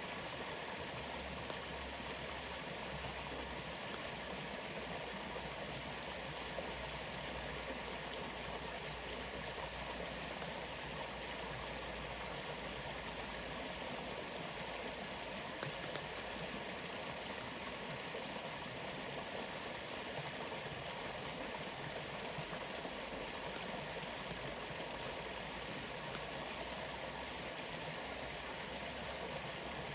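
Waterfall in a rainforest, a steady, unbroken rush of falling water.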